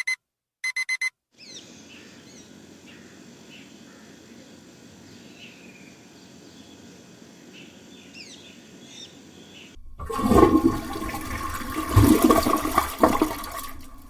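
An alarm clock beeps in quick groups of four, stopping about a second in. Faint chirping follows over a quiet background. About ten seconds in, a loud rush of water starts: a toilet flushing, with a steady whine through it.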